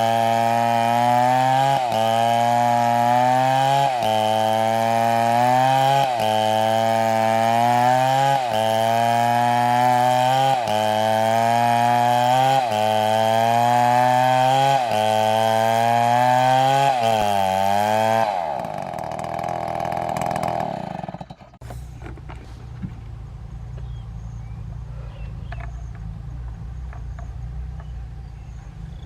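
Chainsaw cutting wood. The engine's pitch sags under load and recovers about every two seconds, then winds down and stops about 18 to 21 seconds in. A lower steady engine-like rumble with a few faint clicks takes over for the rest.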